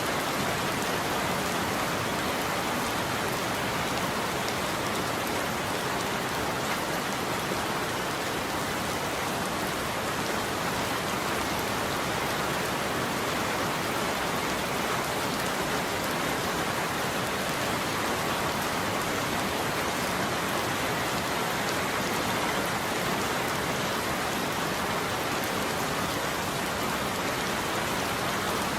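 Steady heavy rain falling on a surface, an even hiss of raindrops with no change in strength.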